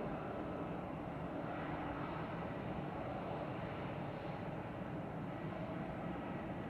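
Airbus A320-214 jet engines (CFM56) running steadily, heard as a distant, even rumble.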